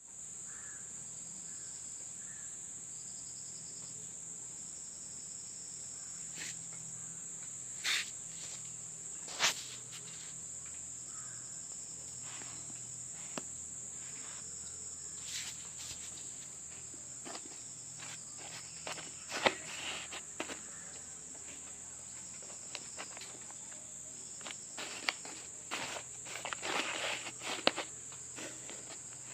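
Insects chirring in a steady high-pitched drone, with scattered short rustles and taps, a cluster of them near the end.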